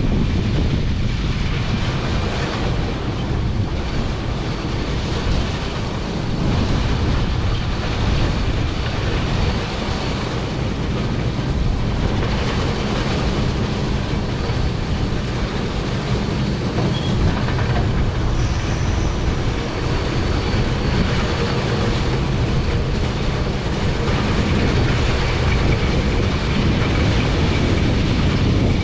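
International 1460 axial-flow combine running in a soybean field, a steady mechanical din of engine and threshing machinery.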